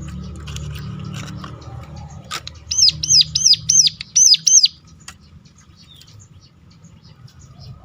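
A ciblek gunung (prinia) sings a fast roll of about seven identical looping high notes, roughly three a second, starting about three seconds in. Before the roll there is a low hum with faint chirps of other birds, and after it only sparse faint chirps.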